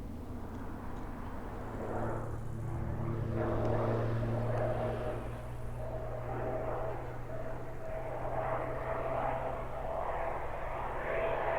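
Light propeller aircraft's engine running with a steady drone, growing louder a couple of seconds in and again near the end as it approaches.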